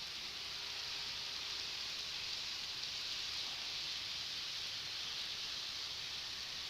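Model train running on its track: a steady whirring hiss that swells slightly through the middle and then eases off.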